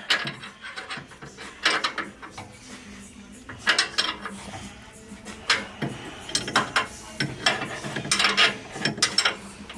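Metal hand tools clinking and clicking on bolts in irregular bursts, as from wrench work on a car.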